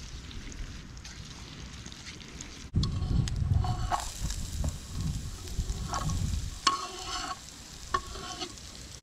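Soppressata frying and sizzling in a pan over a wood fire, with a utensil stirring and scraping against the pan. The sound turns louder about three seconds in, with several sharp clinks of metal in the second half.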